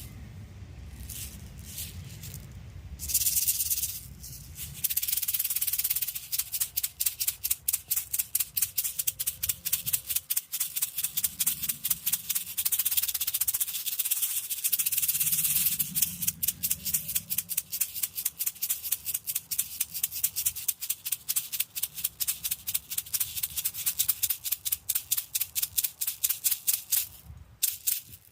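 Handmade hand rattle being shaken: a few light shakes, then a continuous swishing shake, then steady rhythmic strokes at a few per second, broken twice by stretches of continuous shaking. It stops near the end.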